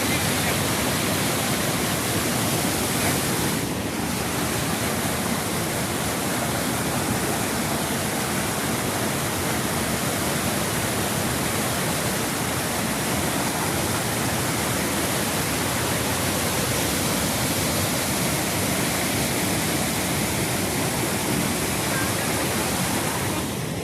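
Waterfall on a river: a steady, unbroken rush of falling and churning water.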